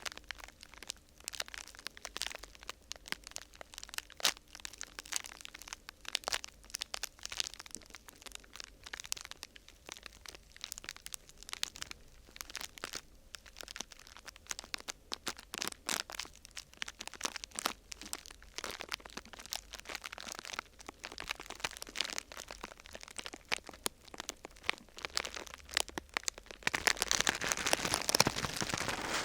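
Close-miked crinkling of thin sheet material being handled: irregular small cracks and crinkles. Near the end it turns into a louder, dense, continuous crackle.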